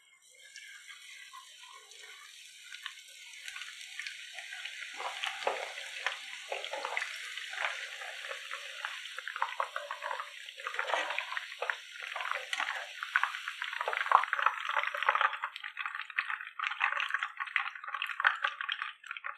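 Batter-coated boneless chicken strips deep-frying in hot oil: a steady sizzle full of fine crackling and popping that grows louder over the first few seconds as the pieces go in.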